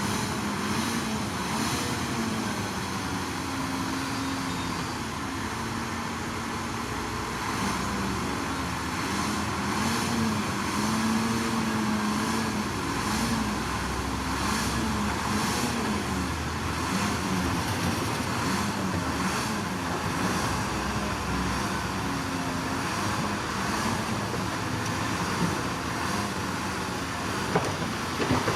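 Diesel engine of heavy earthmoving machinery working steadily, its pitch rising and falling as the load changes.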